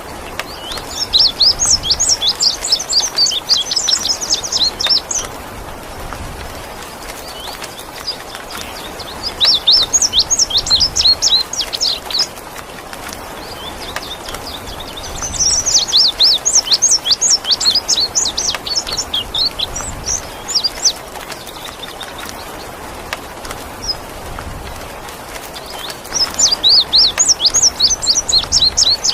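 Indigo bunting singing: four bursts of rapid, high, sweeping chirped notes, each a few seconds long, with pauses between them. Under the song runs a steady hiss of rain water.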